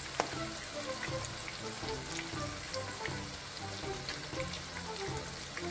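Chapli kabab patties shallow-frying in oil, sizzling with many small pops, under background music with a melody.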